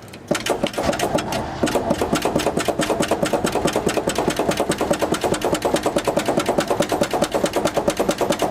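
1970 GMC truck's V8 being cranked over by the starter on a cold start without firing: a steady, rapid chug of about seven to eight compression pulses a second, starting about a third of a second in. The owner puts the failure to start down to a worn-out carburetor that needs rebuilding.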